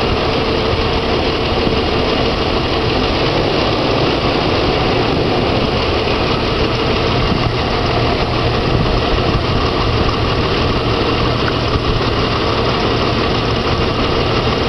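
Jeep 4.0-litre straight-six idling steadily with spark plugs pulled, running on fewer than its six cylinders.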